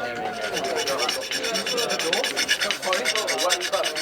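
Hand file rasping on a damaged compressor blade of a Bristol Olympus 301 turbojet in quick, repeated strokes, dressing out nicks left by ingested stones.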